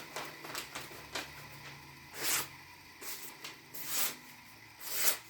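Knife edge making a few short, dry swishing strokes, about one to two seconds apart, with light clicks between them, as a freshly sharpened blade is tried out.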